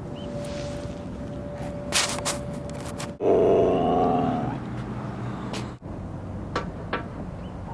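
A Siberian husky's loud vocal call, pitched and wavering, lasting about a second and a half, a little after three seconds in. It follows a few sharp clicks.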